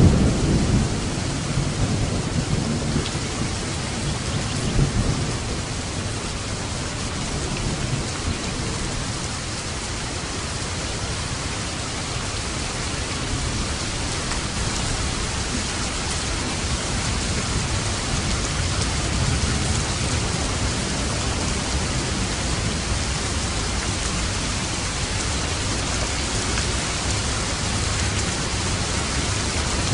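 Steady rain falling on a roof, with a low rumble of thunder at the start that fades away over the first few seconds.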